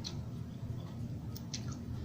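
Quiet eating sounds at close range: a few soft, short clicks while chewing food, over a low steady hum.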